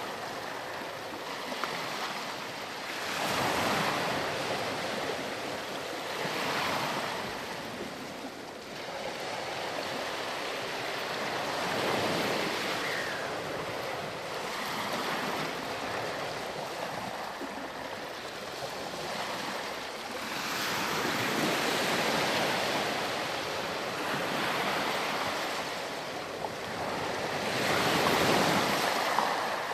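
Ocean waves breaking and washing up a beach: a steady surf hiss that swells with each incoming wave every few seconds, the loudest wave near the end.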